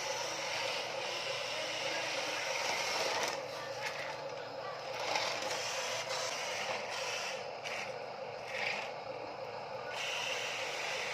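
Huina RC dump truck's small electric motor and plastic gearbox running, a steady whine with a gear rattle that eases off and picks up again a few times.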